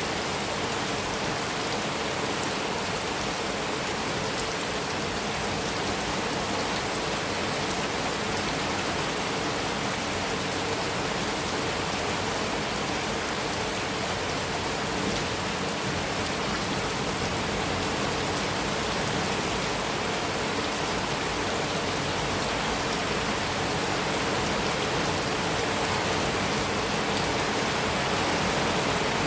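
Heavy rain falling steadily on a metal roof, a dense even patter with no thunder.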